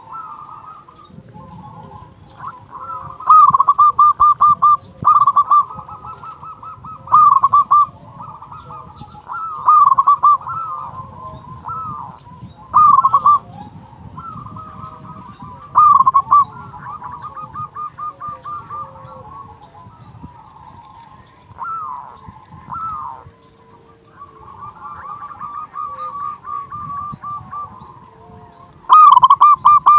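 Zebra dove (perkutut) cooing in full song: loud phrases of rapid, stuttering notes come every two to three seconds, with softer cooing between them.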